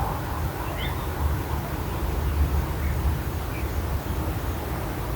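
Wind buffeting the microphone as a low, uneven rumble, with a few faint bird chirps scattered through it.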